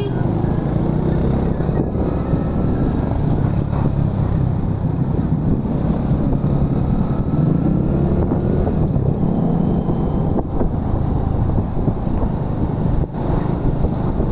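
Motorcycle running at cruising speed with wind rushing over the microphone: a steady low engine rumble that rises and falls slightly under a constant hiss of wind.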